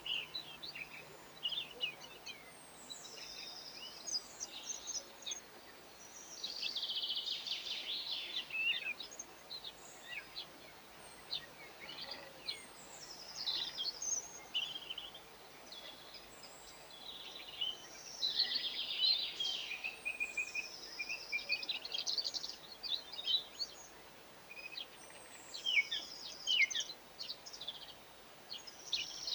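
Small songbirds chirping and twittering, many quick high calls and overlapping song phrases that come in busier runs about a quarter of the way in and again past the middle.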